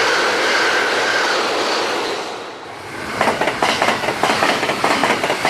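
Train running: a steady rushing noise, then from about three seconds in rapid clicking of wheels over rail joints.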